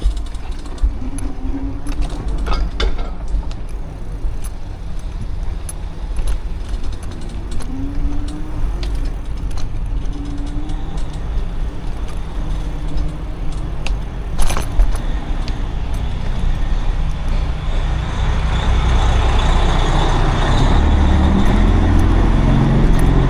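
Street traffic and a low wind rumble on the microphone during an e-bike ride, with a few sharp clicks; the traffic noise grows louder over the last few seconds.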